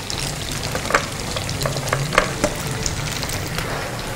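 Potato-and-semolina squares deep-frying in a pan of hot oil: a steady sizzle with scattered sharp pops and crackles.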